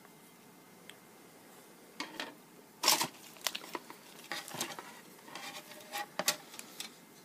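Model kit packaging being handled: a run of crinkling and rustling with sharp clicks, starting about two seconds in and loudest about a second later.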